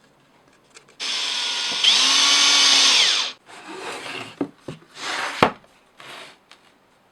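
A power tool motor runs for about two seconds, its whine shifting in pitch, then stops. Scraping and handling sounds of wood follow, with one sharp click.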